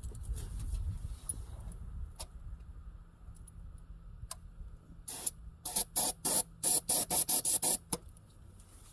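An aerosol can of starting fluid sprayed in a quick run of about eight short bursts, priming the engine so it will fire. A few faint clicks come first.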